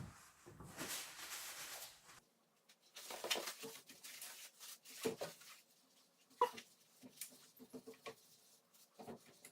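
Paper napkins wiping foamy cleaner and soot off fireplace glass: a couple of seconds of soft rubbing, then a brief pause, then scattered short wipes and rubs with small squeaks.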